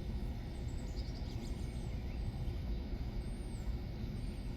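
Outdoor background with a steady low rumble, over which a songbird repeats high, thin, arching notes about once a second, with a few quick chirps about a second in.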